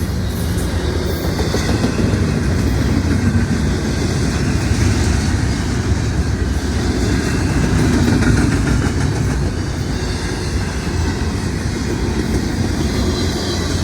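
Norfolk Southern intermodal freight train rolling past, its steel wheels clicking over the rail joints in a steady clickety-clack with a deep rumble underneath.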